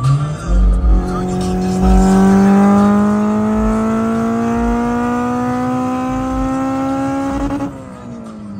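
Turbocharged Honda Integra DB8's engine pulling under full load, its pitch climbing steadily for about six seconds, then falling away near the end as the revs drop.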